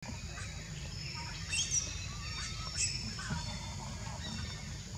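Wild birds chirping and calling, many short chirps and thin whistled notes, over a steady low background rumble.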